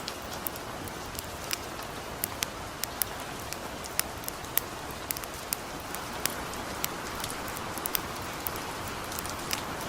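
Steady patter of light rain mixed with a small wood fire crackling: sharp, irregular pops, roughly one or two a second, over an even hiss.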